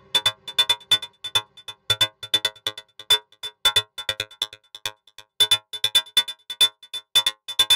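Electronic techno loop in progress: a busy, uneven pattern of short synthesized clicks and blips with a recurring high ping, and no kick or bass underneath.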